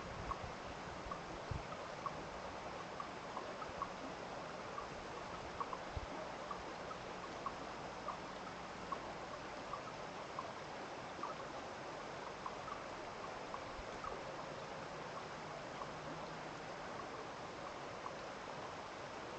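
Water running and trickling steadily, with many small light drips and plinks scattered throughout.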